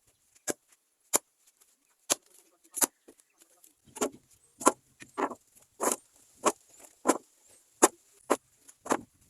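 Firewood knocking: a run of sharp wooden knocks and clacks, a few spaced about a second apart at first, then coming faster and fuller from about four seconds in, as wood is handled to build the bonfire.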